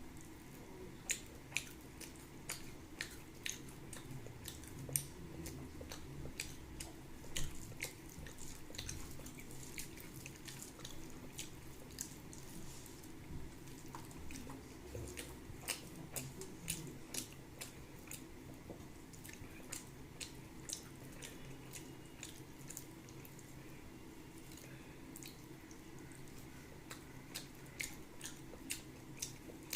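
Close-miked eating sounds: mouth clicks and wet smacks of chewing rice and fish curry, irregular but frequent, over a low steady room hum.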